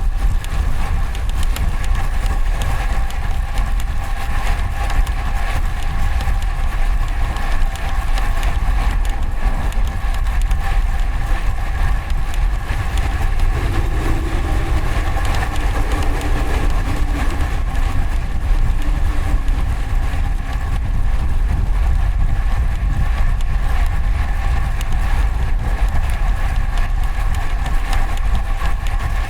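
Steady rumble of wind and traffic noise on a bicycle-mounted camera's external microphone, with a steady high hum running through it.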